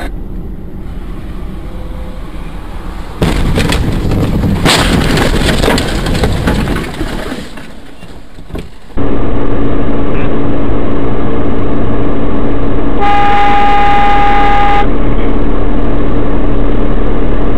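Road and vehicle noise recorded by a car dashcam, loud and distorted in the second half. Near the end a car horn sounds steadily for about two seconds.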